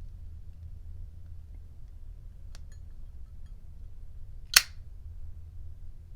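A steady low hum, with a few faint ticks and one sharp click about four and a half seconds in.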